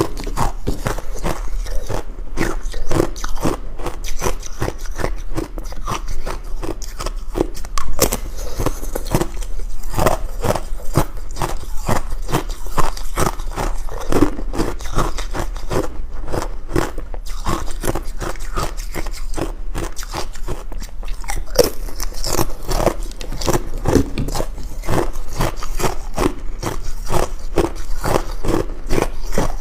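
Ice cubes being bitten and chewed, a dense run of sharp cracks and crunches with no pause.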